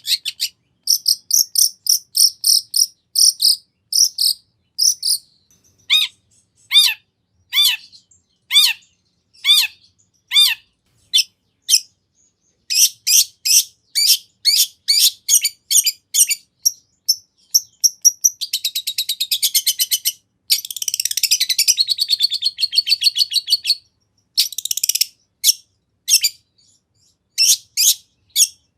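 Long-tailed shrike (cendet) singing a loud, varied song packed with mimicked phrases: rapid runs of sharp high chirps, a string of repeated down-slurred whistles, and about a third of the way from the end a fast, dense chattering.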